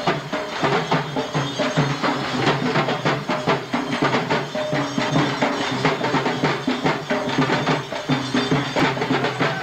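Traditional percussion music: fast, dense hand-drumming that keeps going without a break.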